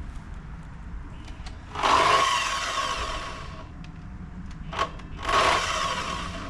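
Power saw cutting wood in two bursts of a few seconds each, its motor whining steadily through each cut, with a short knock just before the second.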